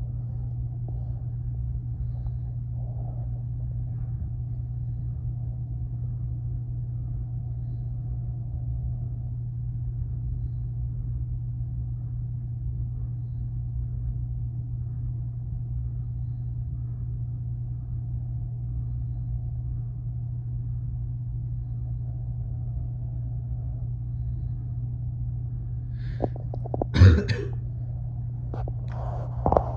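Low, steady rumble of a freight train, muffled through the house walls and window. A brief, loud noise breaks in near the end.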